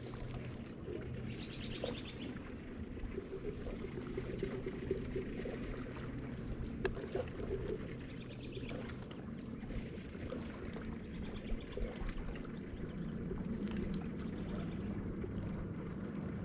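A small bird trills briefly twice, as rapid runs of high notes. Under it is a steady low wash of water around a kayak.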